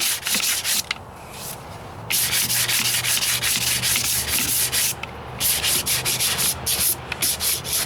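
Sandpaper rubbed back and forth by hand over body filler and spot glazing putty on a pickup's rocker panel, in quick rasping strokes. The sanding pauses briefly about a second in and again about five seconds in.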